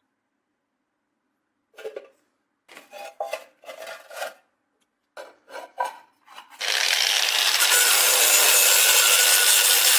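Short scraping strokes of abrasive work on a rusted steel knife blade, about eight in a row, then a steady loud abrasive noise starts about six and a half seconds in and keeps going.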